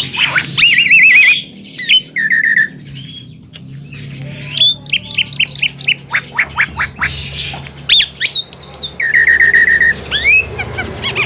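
Javan myna (jalak kebo) in busy chattering song: a fast, varied run of whistled notes, quick trills and harsh squawks.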